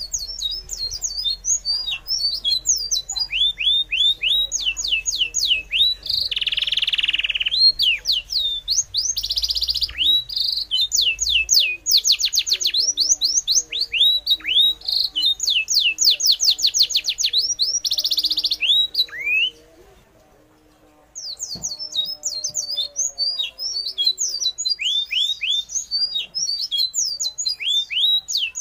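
Birds chirping and trilling in quick, high-pitched sweeps, one call after another, with a brief dropout about two-thirds of the way through.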